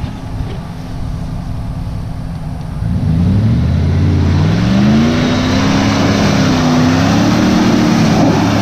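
Jeep Grand Cherokee ZJ engine idling, then about three seconds in revved hard and held high, its pitch rising and falling as the throttle is worked.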